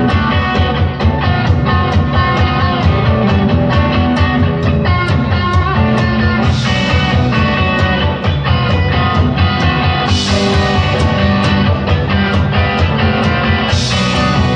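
Rock band playing an instrumental passage: guitar over a steady drum beat, with a cymbal crash three times.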